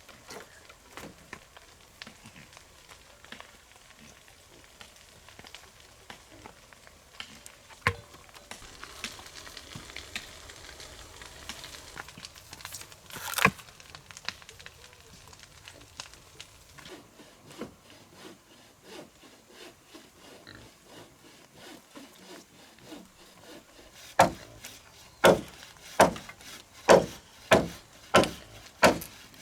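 Work on wood: scattered light knocks and taps, a single hard hit about a quarter of the way in and another near the middle, then near the end a run of about seven hard, evenly spaced strikes, roughly one every three-quarters of a second.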